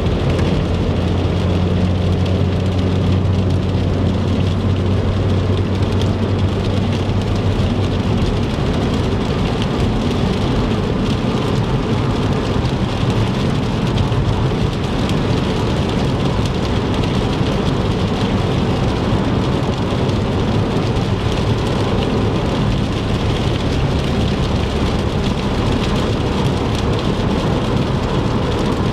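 Steady rain on a moving car mixed with wet tyre noise on the highway. A low hum runs under it and fades out about eight seconds in.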